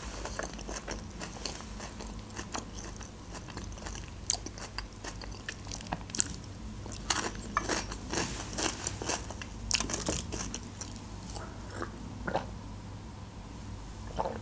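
A person chewing a mouthful of Caesar salad: irregular crunches of crisp lettuce.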